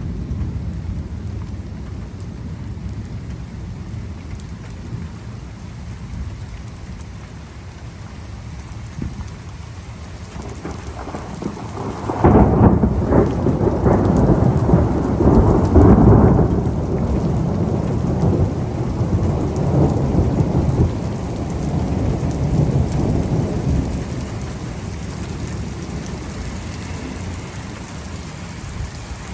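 Steady rain with a loud thunderclap that breaks in suddenly near the middle, rumbles for several seconds and fades back into the rain.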